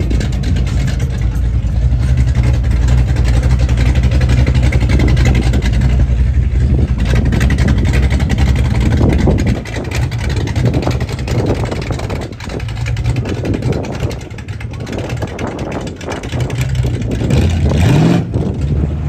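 A car engine running with a steady low hum for about the first half, then turning uneven, with a short rising rev near the end.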